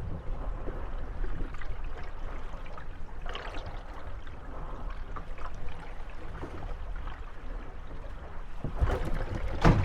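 Moored gondolas rocking on small waves: water slapping and lapping against the wooden hulls, with a louder thump near the end as the boats knock together.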